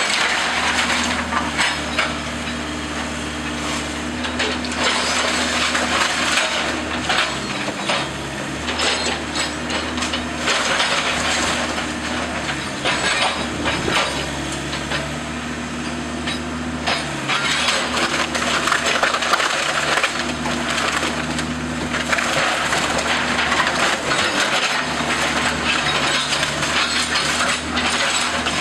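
Wooden house framing being crushed and splintered by demolition machinery: continuous cracking and crunching of wood over a running engine whose pitch shifts now and then.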